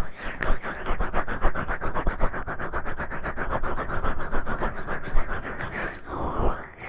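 Ear pick scratching rapidly against an ASMR microphone's ear, a fast run of short scrapes several times a second, giving way to a smoother rubbing swish near the end.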